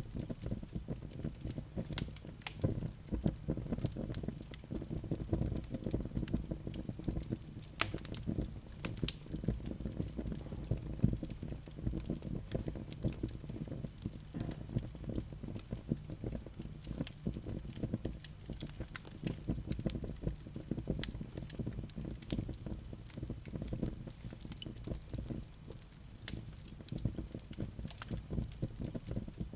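Wood fire in a fireplace: dense irregular crackling and popping over a steady low rumble of the flames.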